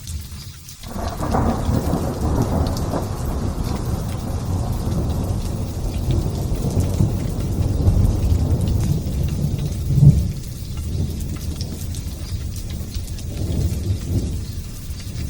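Thunder rolling over steady light rain. A long, deep rumble builds about a second in and rolls for several seconds, with a sharper crack about ten seconds in and a smaller swell near the end, while the rain hisses throughout.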